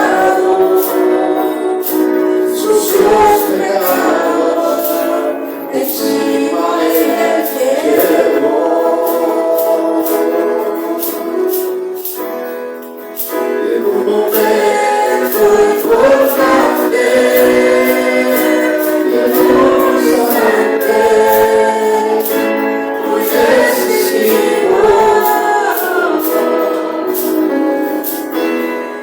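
Group of voices singing a Spanish-language worship song together over instrumental accompaniment, with a steady percussive beat.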